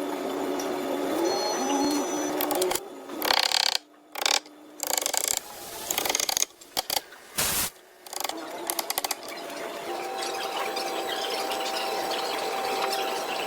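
A small power tool's motor running steadily, stopping and starting abruptly several times in the middle.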